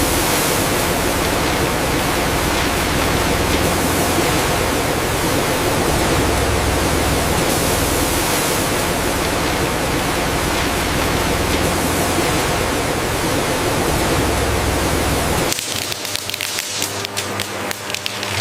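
Loud, steady hiss of factory machinery with a low hum underneath. About fifteen seconds in it drops suddenly to a lighter sound of quick clicks and rattles.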